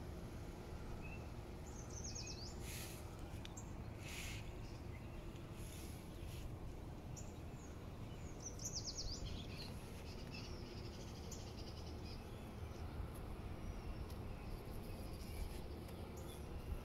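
Songbirds singing in the background: two short high trills, about two seconds and about nine seconds in, with scattered brief calls, over a steady low rumble of outdoor noise.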